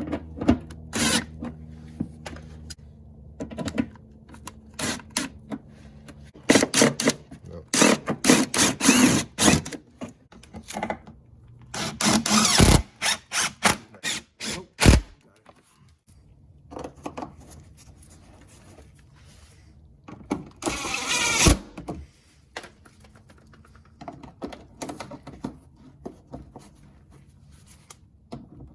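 Car body parts and hand tools being handled during reassembly: an irregular run of clicks, clunks and rattles, with a brief whirring burst past the middle.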